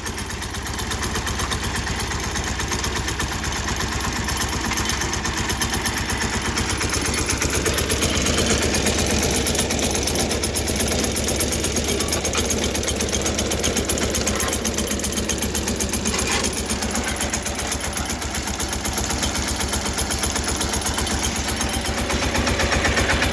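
Single-cylinder air-cooled Deutz diesel of an old Case roller compactor running steadily under load, a rapid even firing beat.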